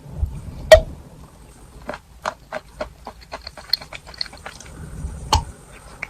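Close-up chewing of chalk with chalk paste: sharp crunches and crackles as the chalk breaks between the teeth, with wet, sticky mouth sounds from the paste. The loudest crunch comes just under a second in, another near the end.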